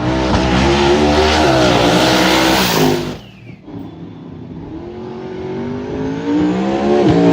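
Drag-racing truck engine at full throttle down the strip. The engine note runs loud, drops off suddenly about three seconds in, then climbs steadily in pitch and loudness again.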